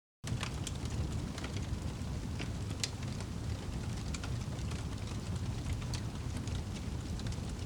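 Fire crackling: a steady low rumble of burning with frequent small, sharp pops and snaps. It starts abruptly out of complete silence a moment in.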